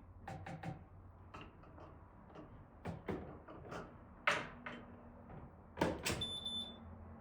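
Household objects handled: a string of light clicks and knocks, with two louder knocks about four and six seconds in, like a door or cupboard being shut. Just after the second, a brief high electronic beep.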